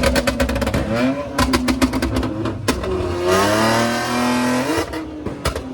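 A car engine revving hard in quick blips, with a rapid crackle of sharp pops. It then holds a longer rev that climbs in pitch for about a second and a half before dropping off, followed by a couple more pops.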